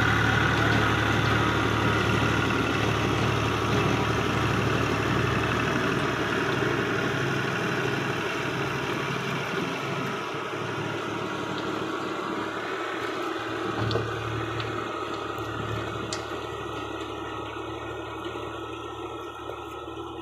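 Al-Ghazi tractor's diesel engine running steadily with a low hum, slowly growing fainter.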